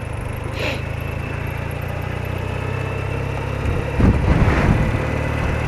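BMW R80RT's air-cooled flat-twin engine running steadily, with a louder, rougher stretch about four seconds in.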